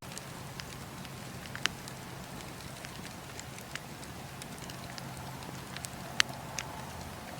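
Campfire burning with a steady hiss and irregular sharp crackles and pops of burning wood. The loudest pop comes about six seconds in.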